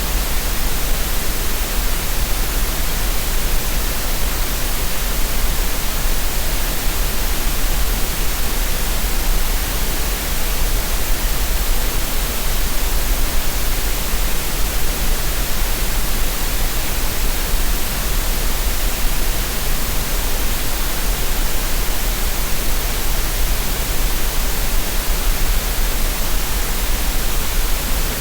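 Steady synthetic green noise: an unchanging hiss spread evenly from deep lows to high treble, with no events or changes. It is played as a relaxation and tinnitus-masking sound.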